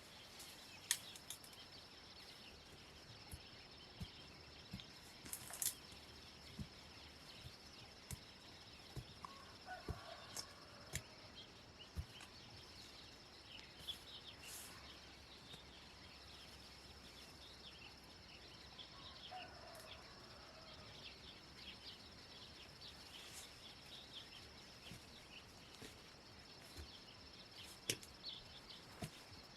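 Faint forest ambience: a steady high insect drone, scattered light clicks and knocks, and two short bird calls, one about a third of the way through and one about two-thirds of the way through.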